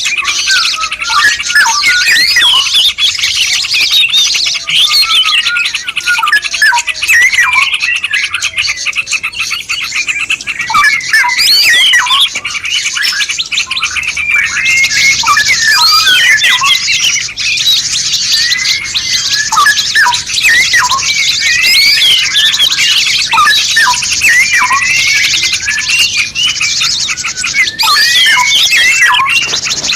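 Dense chorus of songbirds: many overlapping quick chirps, trills and whistled sweeps, with several birds singing at once over a steady hiss.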